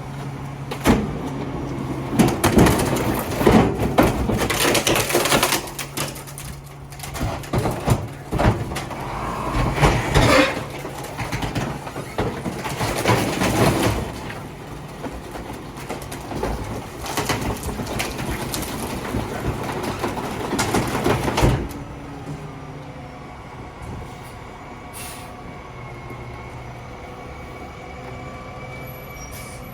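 Garbage truck emptying refuse: about twenty seconds of loud, irregular clattering and banging of trash and containers, then the truck running steadily with a faint whine.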